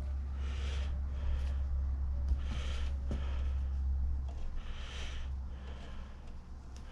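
Soft rasping strokes, about one a second, of a hand-turned tap or die working back and forth on a vise's worn steel threads as they are chased and repaired. A steady low hum runs underneath.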